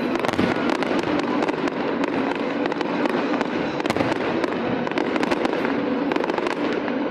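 Fireworks crackling continuously: a dense, unbroken run of many small pops and crackles.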